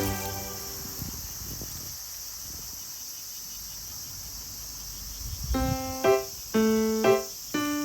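Cicadas buzzing in a steady, high, even hiss. Piano music comes in about five and a half seconds in, as a few separate notes.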